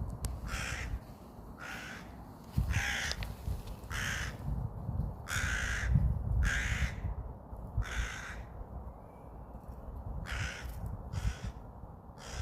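A bird calling over and over, about ten short calls spaced under a second apart with a pause near the middle, over a steady low rumble.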